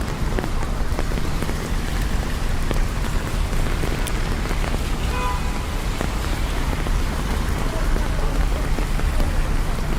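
Steady rain falling on city streets, with a low rumble of traffic underneath. About halfway through, a brief pitched sound rises above the rain.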